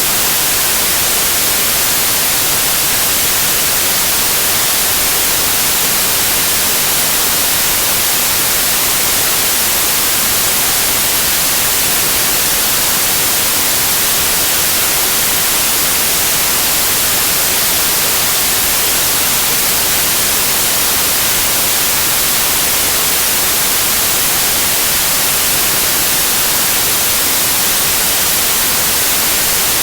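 Steady white noise of the TV-static kind: an even, unchanging hiss, strongest in the treble.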